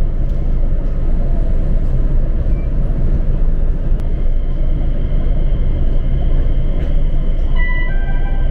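A passenger train running along the line, heard from inside the carriage: a steady rumble of wheels and running gear. A faint high whine comes in about halfway through, and a few short high tones step downward near the end.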